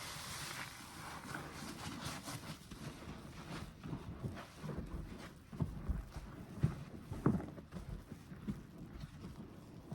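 Soapy wet sponge being squeezed by hand: a foamy fizzing hiss at first, then a run of irregular low squelches, the loudest about halfway through.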